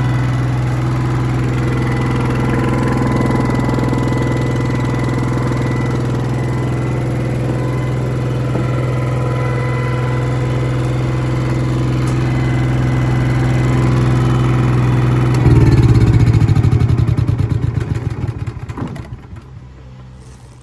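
Airman PGW180SCL engine welder-generator running steadily. About fifteen seconds in the engine note changes abruptly and then winds down to a stop over a few seconds as the engine is shut off.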